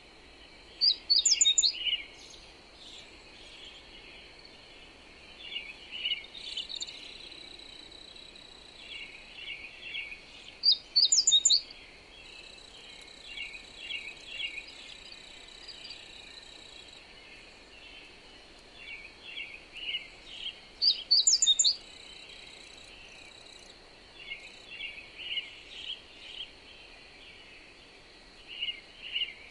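Songbirds singing: one bird repeats a loud, quick phrase of high notes about every ten seconds, over many softer chirps from other birds. A steady thin high-pitched tone and faint windy noise run underneath.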